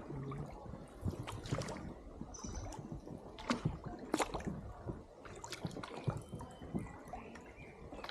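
Oars dipping into the water from a small rowed boat, with irregular sharp splashes every second or so and water gurgling and dripping between strokes.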